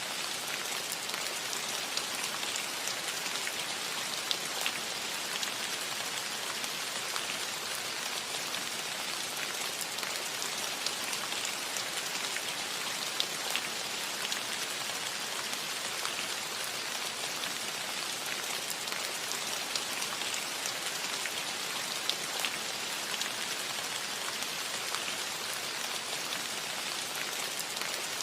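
Steady rain falling on a metal roof: an even hiss dotted with the sharper ticks of single drops striking the metal.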